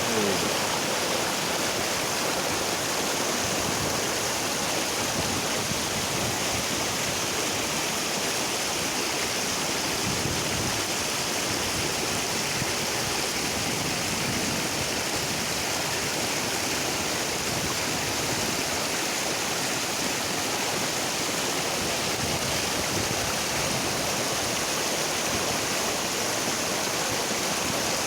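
Waterfall water rushing and splashing in a steady, unbroken roar.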